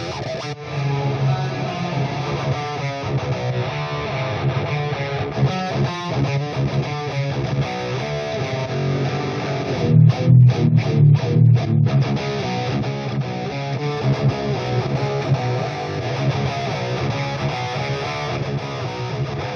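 Electric guitar played through Overloud TH-U amp simulation, a continuous riff. About ten seconds in comes a run of about five short, stopped chords, the loudest part.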